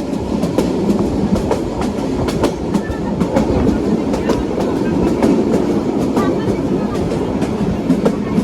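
Train running along the track: a steady rumble with frequent irregular sharp clicks from the wheels on the rails.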